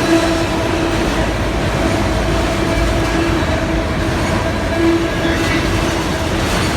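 Freight train going by close at hand: a steady heavy rumble of locomotive and rolling cars on the rails, with a sustained steady tone running through it.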